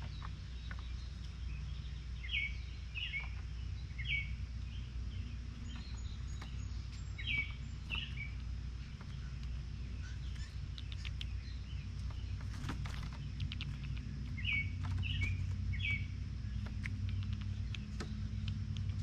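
Small songbirds chirping, short notes in quick clusters of two or three every few seconds, over a steady low hum, with a few faint clicks.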